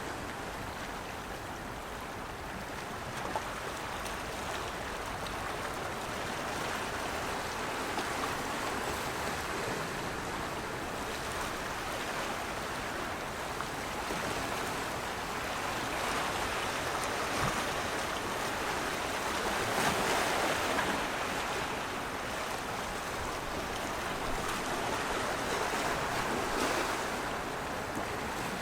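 Rushing water: a steady wash of noise that swells and eases every few seconds.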